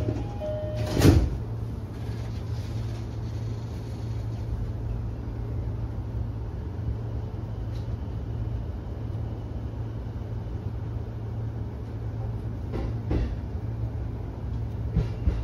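Electric commuter train heard from the cab: a loud clunk about a second in, then a steady low hum as the train moves slowly past the platform, with a few light knocks near the end.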